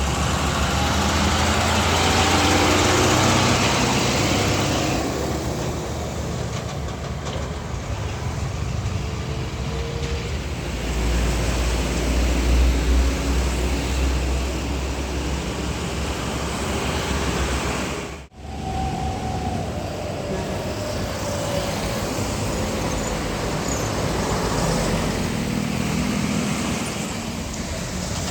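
Heavy trucks and road traffic passing: diesel engines running with tyre and road noise, a deep engine hum swelling as one passes. About two-thirds of the way through the sound cuts briefly, then another vehicle passes with a slowly falling pitch.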